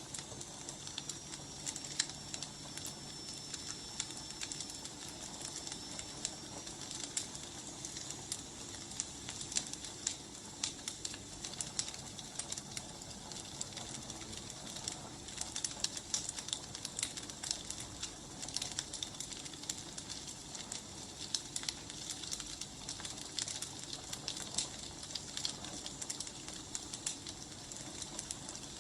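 Wood fire burning, crackling with frequent sharp pops over a steady hiss. A thin high whistle runs through the first seven seconds or so.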